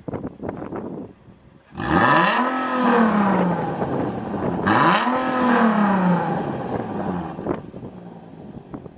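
Infiniti G37 coupe's 3.7-litre V6 through a WABBP variable-valve exhaust, idling unevenly and then revved twice. Each rev climbs quickly and falls back over a couple of seconds before the engine settles to idle.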